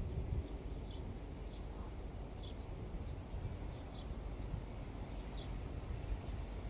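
Small birds chirping, short high chirps every second or so, over a steady low rumble.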